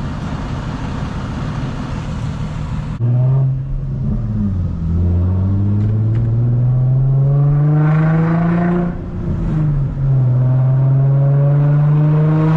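Infiniti G35's VQ-series 3.5-litre V6 with the muffler and resonator deleted, droning steadily and then accelerating: the exhaust note rises for several seconds, drops at a gear change just before ten seconds in, and rises again.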